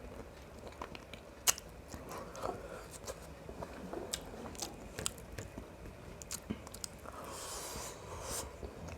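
Close-up eating sounds of someone chewing biryani and mutton gravy: wet chewing with scattered sharp mouth clicks, the loudest about one and a half seconds in, and a longer hissing rush near the end.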